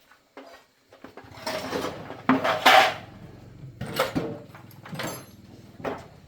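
A small engine starts about a second in and keeps running with a low, even pulse, while loud metallic clattering and knocks come over it several times.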